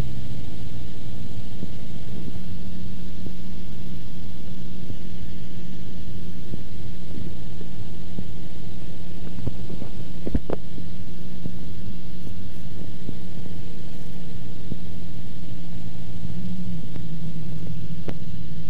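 Cessna 172's piston engine and propeller droning steadily, heard inside the cabin, with one sharp click about ten seconds in.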